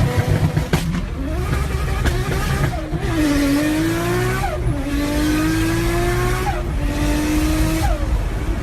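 Car engine accelerating hard through the gears. From about three seconds in, the engine pitch climbs steadily and then drops sharply at each gear change, three times.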